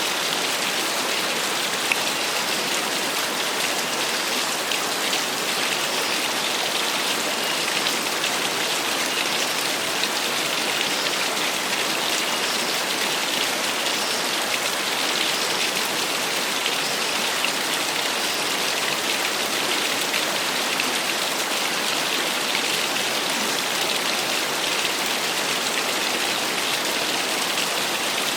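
Small waterfall splashing steadily, a constant hiss of falling and splashing water.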